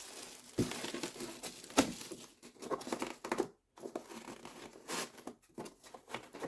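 Packaging crinkling and rustling as an RC transmitter is worked out of its box, with a few sharp knocks and clicks.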